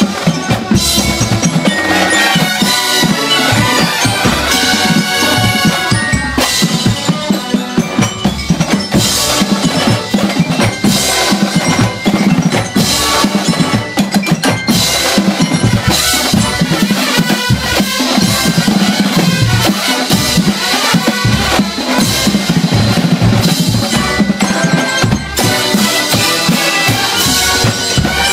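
Drum corps percussion section playing a continuous, busy passage: snare and bass drums with mallet keyboards such as marimba and glockenspiel.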